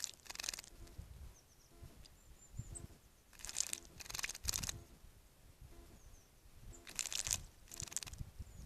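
Songbird bathing in a garden bird bath: several short bursts of splashing and wing-fluttering in the water, coming in pairs, with faint short high bird calls between them.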